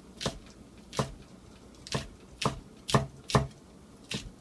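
Kitchen knife chopping green onions on a cutting board: about seven separate, uneven strokes, each a sharp knock of the blade against the board.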